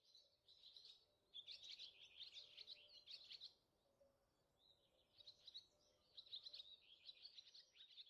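Faint birdsong: rapid high chirping and twittering in two bouts of about three seconds each, with a short lull near the middle.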